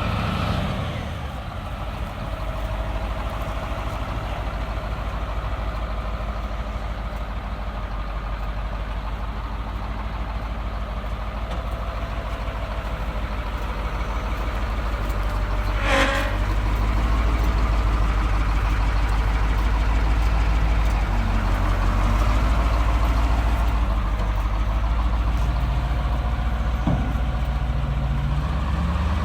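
Heavy truck engine running, a steady low drone that grows a little louder from about halfway through, with one sharp click or knock about 16 seconds in.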